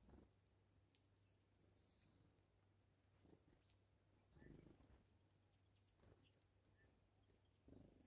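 Near silence with faint small-bird calls at a winter feeder: a falling high whistle about a second in and scattered short, high chirps. A few soft low thumps are also heard.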